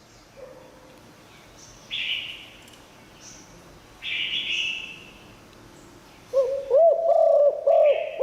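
Spotted dove cooing: a run of arched coo notes starts about six seconds in. Two short, higher chirpy calls come at about two and four seconds.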